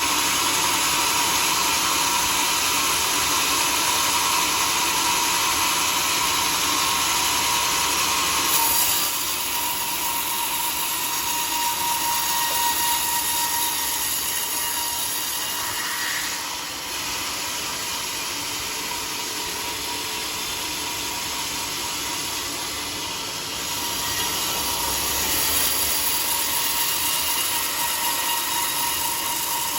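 Sawmill saw cutting through a teak log: a steady whine under loud, dense cutting noise, easing a little about nine seconds in and growing louder again near the end.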